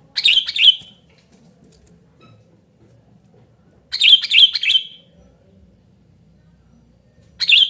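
Sooty-headed bulbul (kutilang) singing loud, lively calls. Three short phrases of several quick notes each, about three and a half seconds apart.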